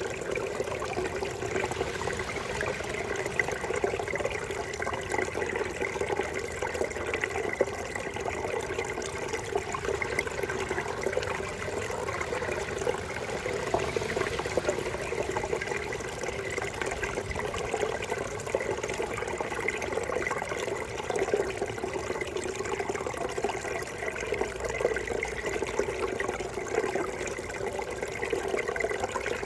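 Small brook babbling and trickling, a steady flow of running water with no breaks.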